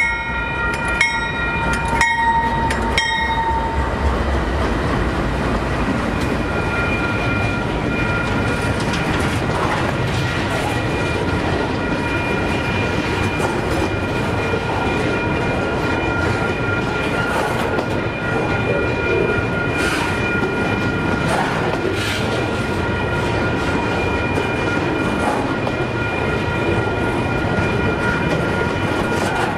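Union Pacific AC44CW diesel locomotive passing close, its horn sounding its last in the opening moment and its engine rumbling for the first few seconds. After that a long string of rail-train cars rolls by with steady wheel clatter, while a high steady ringing from the grade crossing signal carries on over it.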